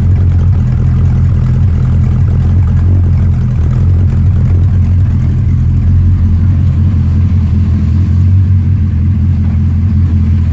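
416 cubic-inch LS3-based V8 idling steadily through a 3-inch exhaust with Borla Pro XS mufflers, its sound mostly a low, even note.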